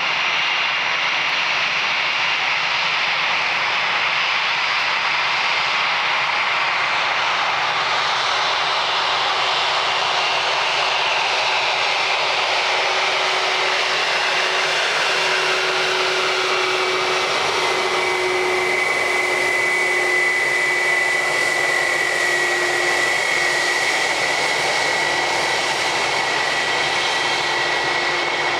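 Airbus A321's twin IAE V2533-A5 turbofan engines during landing: a steady, loud jet rush with whining tones. One tone slides slowly down in pitch over several seconds, and later a high whine holds steady.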